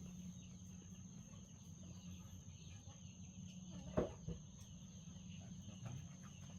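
Crickets or other insects chirring steadily, with one high, even tone running through it. About four seconds in there is a single sharp knock.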